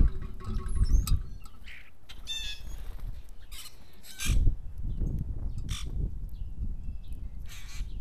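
Backyard birds calling: thin chirps, a short trill, and several harsh calls spread through, over a low steady rumble that swells briefly about halfway through.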